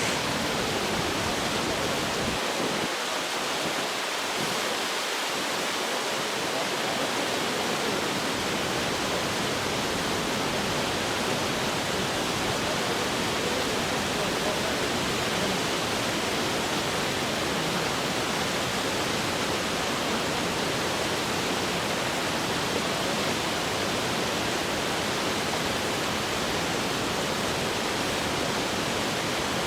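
Rushing water of a mountain stream or waterfall: a steady, even hiss that keeps up without change.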